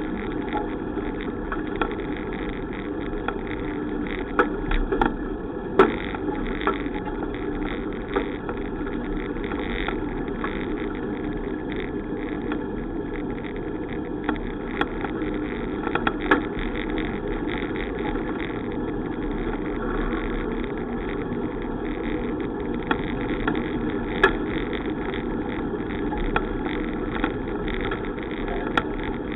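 Steady rushing ride noise from a moving bicycle, with scattered sharp clicks and knocks, the strongest about six, sixteen and twenty-four seconds in.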